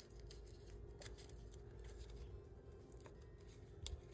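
Faint handling of paper and card, with a few small clicks and scratches as a metal brad is pushed through, and a sharper click near the end.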